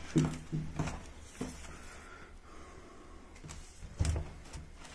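Soft clicks and knocks from small objects being handled, with one louder knock about four seconds in. A brief low murmur of voice comes in the first second.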